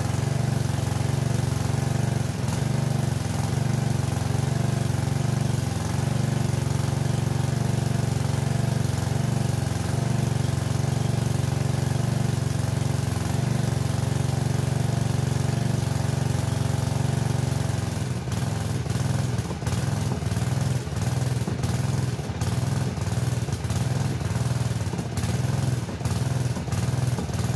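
Small garden-tractor engine of an old Craftsman front-end-loader tractor running steadily, then about two-thirds of the way through running unevenly with a rhythmic pulsing, about two beats a second.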